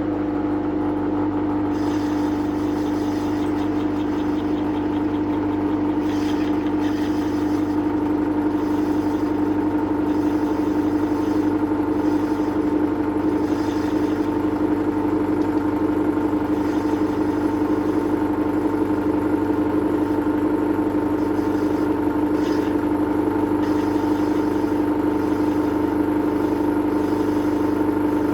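Metal lathe running steadily while turning down the forged aluminium lip that holds the bearings in a supercharger's front bearing plate, a constant motor tone with faint cutting noise coming and going.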